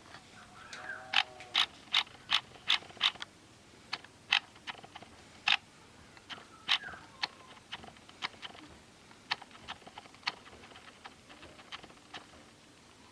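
A small mechanism clicking sharply: a quick even run of about two and a half clicks a second for a couple of seconds, then scattered, fainter clicks.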